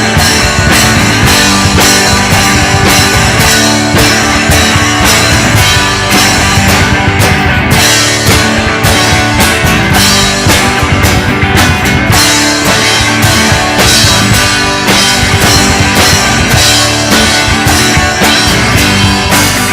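Live rock band playing an instrumental break: electric guitar over a steady drum-kit beat.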